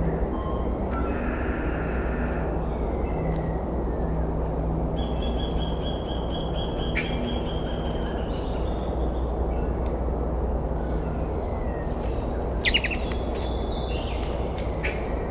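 Small birds calling outdoors: thin, high whistled notes, then a quick run of sharp chirps near the end, over a steady low rumble.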